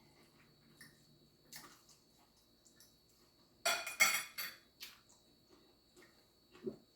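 Eating utensil clinking and scraping against a dish, loudest in a cluster of sharp clicks about halfway through, with a few soft clicks around it and a dull knock near the end.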